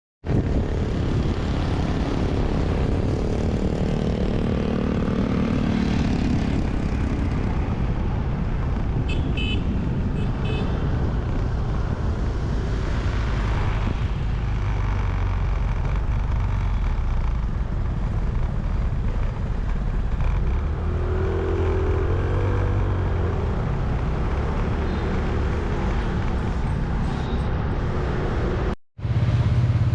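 Motorbike running along the road, its engine mixed with a heavy, steady low rumble of wind and road noise on the bike-mounted microphone. The sound cuts out briefly near the end.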